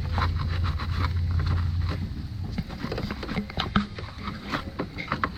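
Irregular small clicks and scrapes of hand work on a cable terminal being cleaned with a Scotch-Brite pad. A steady low hum under it stops about two seconds in.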